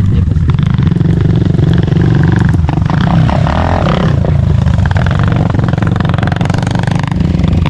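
Motorcycle engine running nearby, a steady low rumble throughout.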